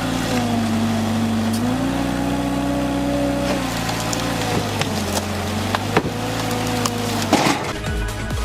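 An engine running steadily under varying load, its pitch dropping and then recovering a couple of times, with scattered sharp knocks and cracks of wood; the engine sound stops near the end.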